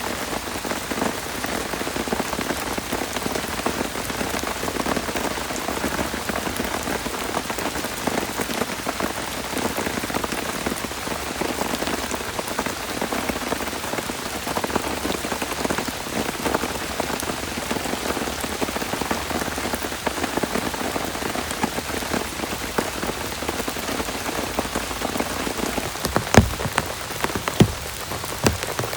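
Heavy rain falling steadily on a surface as a dense spatter of drops, with a few louder sharp knocks near the end.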